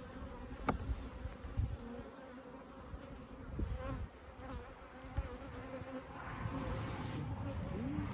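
Honey bees buzzing around an opened hive, with a steady hum and individual bees whining past close by, rising and falling in pitch. A light click sounds about a second in.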